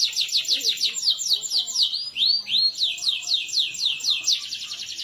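Domestic canary singing a fast run of repeated downward-sweeping whistled notes, with two rising notes about two seconds in, then breaking into a dense rapid trill (a roll) near the end.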